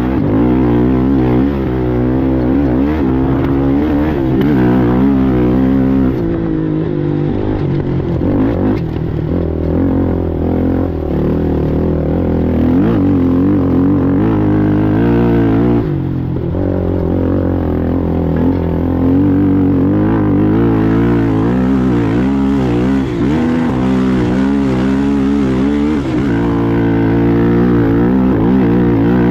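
Racing ATV engine running hard, its pitch rising and falling over and over with the throttle.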